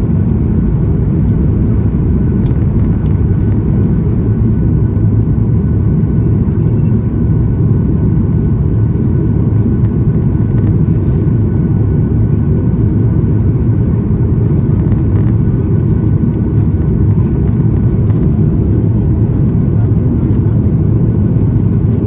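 Steady low rumble inside the cabin of a Boeing 737 MAX 8 airliner, from its CFM LEAP-1B jet engines and the airflow around the fuselage, with a few faint steady tones above it.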